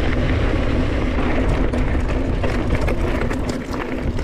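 Wind buffeting the microphone during a fast mountain-bike run, with the tyres rolling over loose shale and the bike rattling in scattered clicks.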